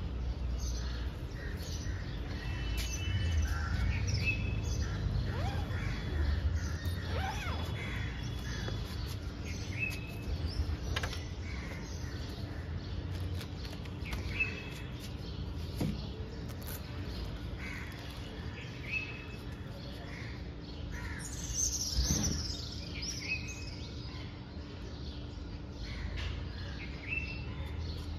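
Birds chirping and calling in short, repeated hooked calls every few seconds, with a quick run of falling calls about two-thirds of the way in, over a steady low hum and a few sharp clicks.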